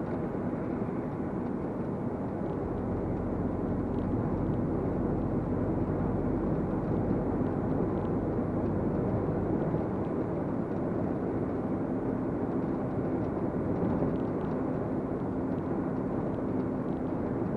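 Inside the cab of a 2023 MAN TGX 470 lorry on the move: steady diesel engine and road noise. A faint engine hum comes through more clearly about halfway in.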